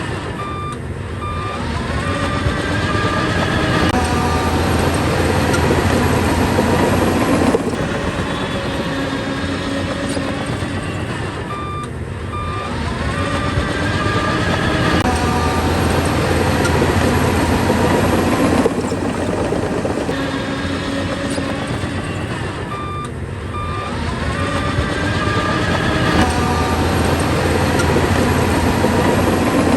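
Bulldozer's diesel engine working in a repeating cycle, swelling under load and then easing, with a reversing alarm beeping in short runs about every eleven seconds as the machine backs up between pushes.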